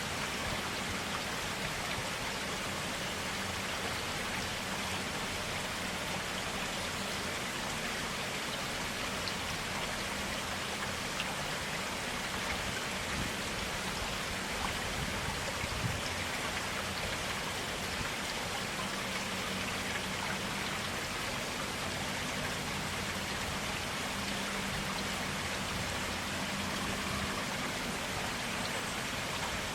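A clear forest stream running steadily over stones, an even rush of water with faint scattered droplet splashes.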